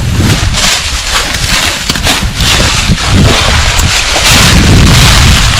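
Strong wind buffeting the microphone: a loud, gusting rush with a heavy low rumble and scattered crackles.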